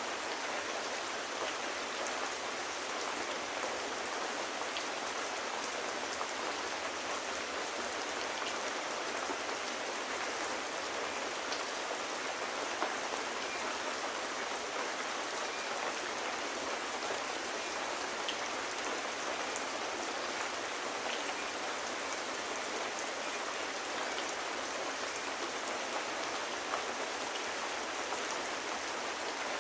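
Steady rain falling, an even wash of sound with scattered faint ticks of individual drops.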